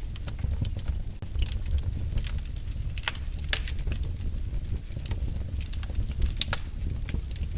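Wood fire burning in a fireplace, crackling: scattered sharp pops and snaps at irregular intervals over a steady low rumble.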